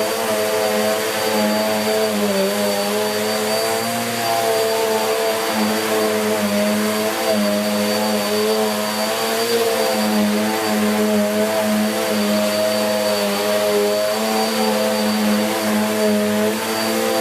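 A 1900 W Bissell Cleanview Plus bagless vacuum cleaner running at full power while vacuuming carpet. The motor hum wavers slightly in pitch as it works, with a thin, steady high whine over an even rush of air.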